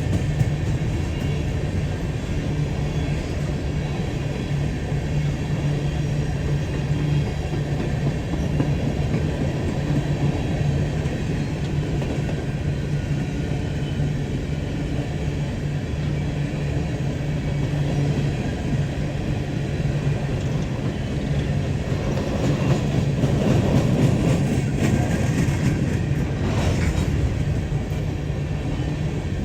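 Freight coal train rolling past with a steady low rumble of wheels on rail, swelling louder for a few seconds near the end.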